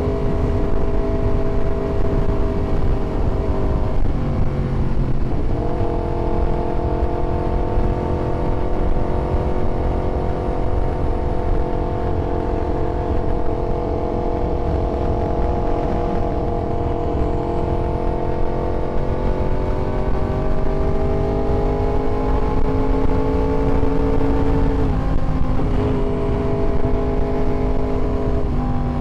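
Yamaha YZF-R1 inline-four sport bike engine running continuously, its note drifting slowly up and down. The note breaks off and settles at a new pitch about four seconds in and again near the end, over a steady low rush of noise.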